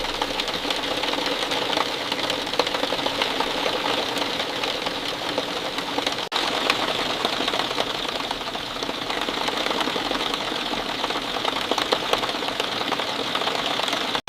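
Steady rain falling, dense drops pattering in a continuous rapid ticking, with a split-second dropout about six seconds in.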